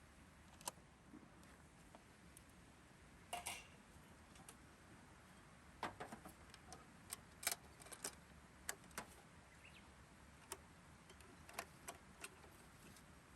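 Scattered faint sharp clicks and snaps at irregular intervals over a quiet steady hiss.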